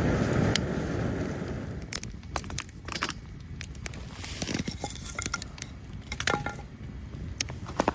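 A low rumbling noise fades out over the first two seconds, followed by scattered sharp clicks and light knocks, like small objects being handled.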